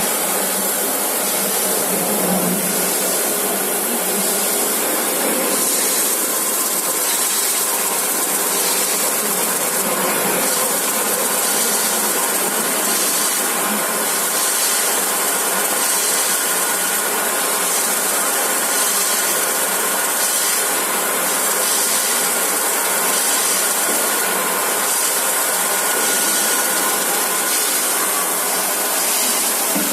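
H-beam CNC drilling machine line running: steady industrial machine noise under a strong, even high hiss.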